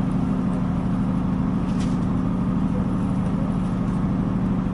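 Inside a Northern Ireland Railways diesel passenger train running along the line: a steady low drone from the engine and the rolling wheels, with a faint click about two seconds in.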